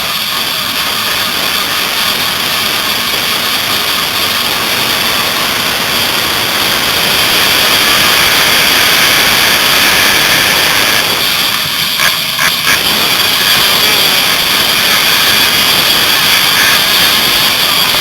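Motocross bike engines running hard in a race, a loud, steady noise. There is a brief cluster of short knocks about two-thirds of the way through.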